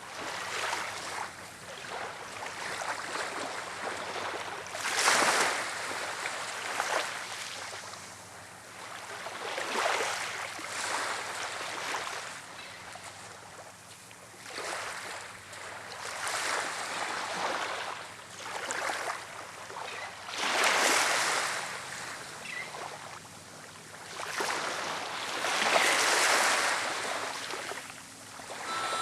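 Rushing noise of wind and waves on a windy shore, swelling and fading every four to six seconds.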